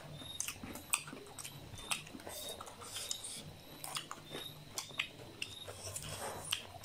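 Close-miked mukbang eating: chewing and wet mouth sounds with many short, irregular clicks.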